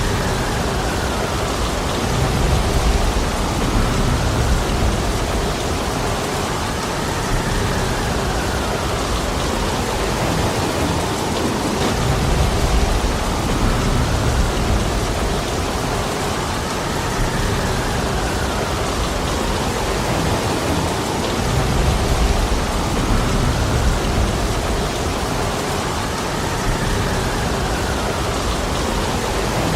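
Heavy rain falling steadily in a forest, a dense even hiss. Deeper low swells come and go about every nine seconds.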